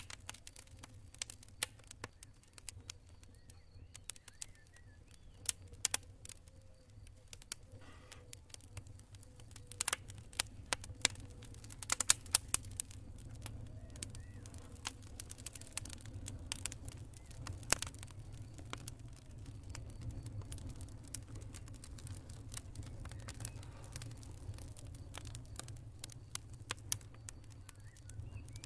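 Campfire crackling: irregular sharp pops and snaps of burning wood, a thicker run of them about twelve seconds in, over a steady low rumble of the flames.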